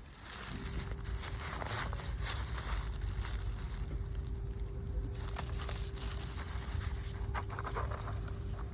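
Crinkling and rustling handling noises, thickest in the first few seconds and again near the end, over a steady low hum and rumble.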